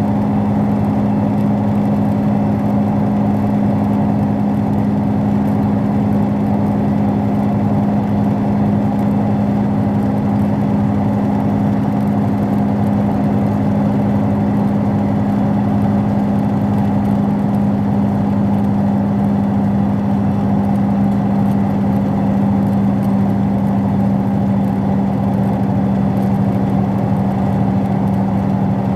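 Steady hum and rumble inside a moving passenger train carriage, with one constant low tone throughout and no rail clicks.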